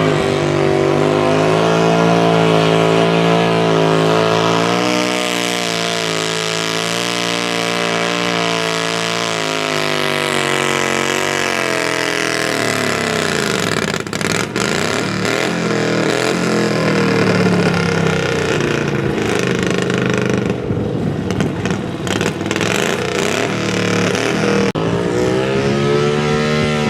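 Engine of a competition pulling tractor running hard under load. Its pitch drops gradually over several seconds, then it runs rough and lower for a long stretch, and revs up sharply near the end.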